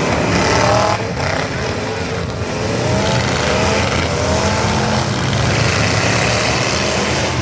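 Several full-size pickup trucks' engines running at once, revving up in repeated rising pulls over a steady low engine drone.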